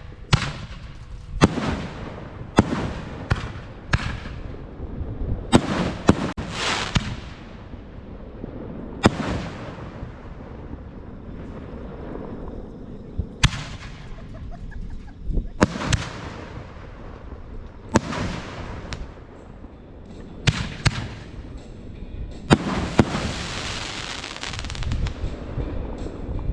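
Fireworks going off: a string of sharp bangs at irregular intervals, each followed by a fading tail. Near the end comes a longer hissing, crackling burst.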